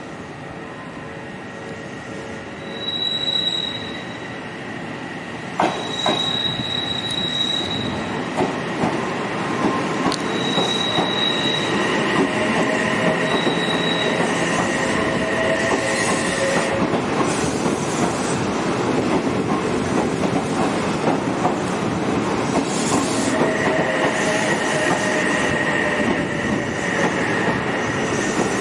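Odakyu 8000 series electric commuter train pulling slowly into a station platform: its wheels squeal in repeated high tones, with one sharp clack about six seconds in. The rumbling running noise grows louder as the cars roll close past, with further squeal tones later on.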